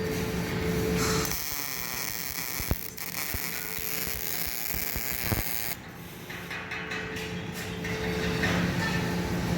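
MIG welding arc crackling and buzzing, over a steady electrical hum. The sound shifts about a second in, drops away near six seconds, and the crackle picks up again toward the end.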